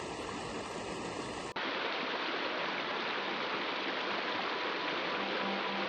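Stream water running steadily. About one and a half seconds in, it drops out for an instant and comes back slightly louder and brighter.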